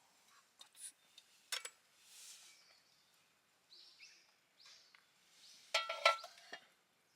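Objects being handled: light clicks and short rustles, with a cluster of small clinks that ring faintly about six seconds in.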